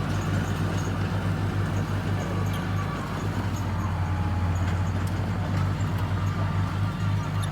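Bulldozer diesel engine running steadily under load, a fast, even low throb.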